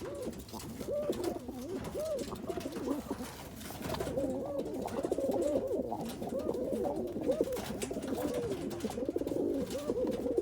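Several roller pigeon cocks cooing at once, their rising-and-falling coos overlapping, busier from about four seconds in.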